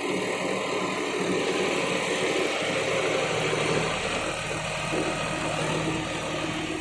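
John Deere 5210 tractor's diesel engine running steadily.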